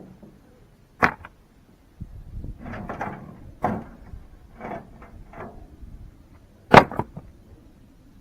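Foundation-digging work: two sharp knocks, about a second in and again near the end, with softer scraping and shuffling between them.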